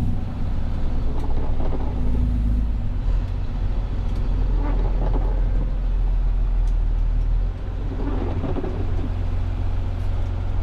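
Kenworth T270 tow truck's diesel engine running at low speed while the truck creeps forward; its low rumble shifts pitch about three seconds in and again near the eighth second.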